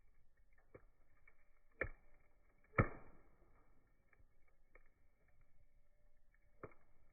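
Campfire wood crackling: scattered faint ticks and four sharp pops, the loudest about three seconds in.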